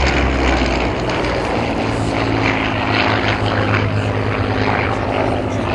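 Spitfire Mk IIa's Rolls-Royce Merlin V12 engine and propeller running at display power, a steady engine drone.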